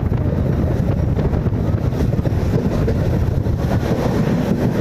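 Steady rumble of a MEMU electric train running, with wind buffeting the microphone and a faint steady hum underneath.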